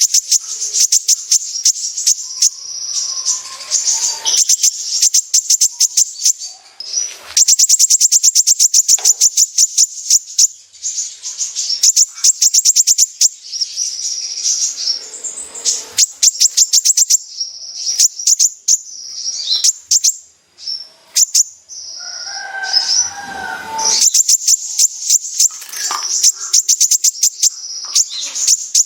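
Kolibri ninja (a sunbird) singing a loud, fast song: rapid runs of high, sharp notes in quick succession, broken by short pauses, with a lower warbled phrase a little past the middle.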